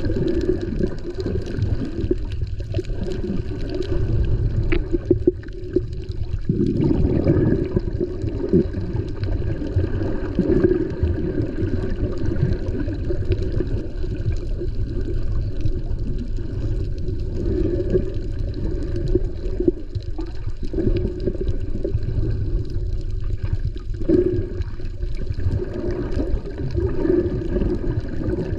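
Muffled water sloshing and rushing around a GoPro action camera carried by a swimming snorkeler, a continuous low, dull wash that swells and eases without a break.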